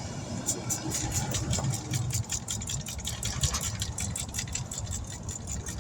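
A motor-driven machine running, with a rapid, even ticking of about seven ticks a second over a low rumble.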